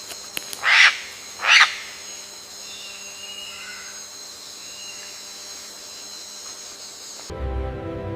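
An eagle gives two short, harsh screeches about a second apart, over a steady hiss with faint chirps. Music comes in near the end.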